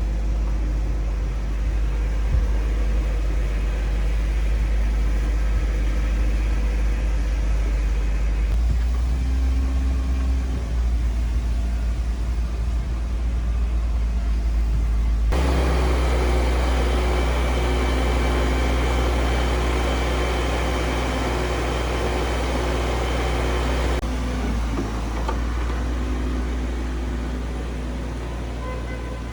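A motor running steadily with a low hum, its sound changing abruptly twice, about halfway through and again near the end.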